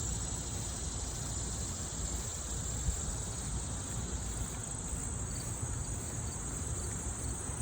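Insects, crickets in meadow grass, keeping up a steady high-pitched chirring. Under it runs a steady low rumbling noise.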